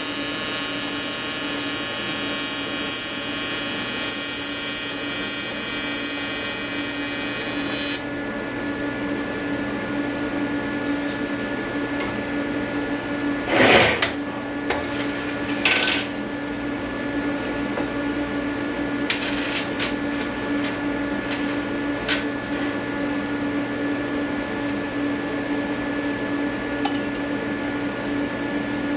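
AC TIG welding arc buzzing on aluminium, from an Everlast 325EXT on square wave at 100–150 Hz. The arc cuts off about eight seconds in. A steady hum carries on, with a clatter near the middle and a few light ticks.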